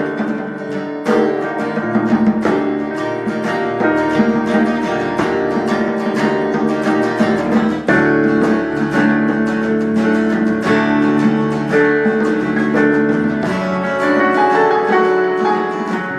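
Instrumental passage of a song between sung verses, led by plucked acoustic guitar.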